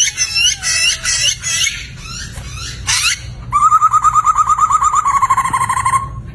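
Poksay (laughingthrush) singing loudly: a burst of quick, varied chirping phrases, a sharp rising note about three seconds in, then a fast trill of repeated notes at about nine a second that runs for some two and a half seconds, with a faint low hum underneath.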